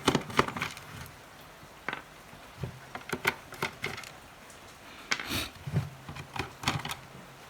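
Scattered light clicks and taps of a small radio being taken apart by hand.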